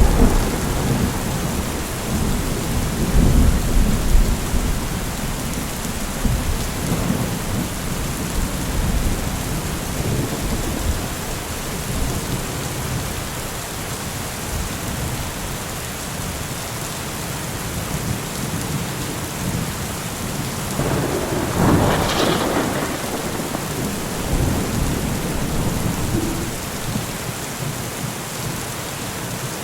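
Steady rain falling in a thunderstorm. A low rumble of thunder dies away over the first few seconds, and another peal of thunder swells and fades about two-thirds of the way through.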